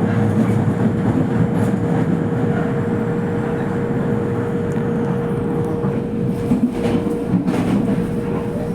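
Toei Mita Line subway train running, heard inside the car: a steady rumble of wheels and running gear with a constant hum, and a few sharp knocks near the end.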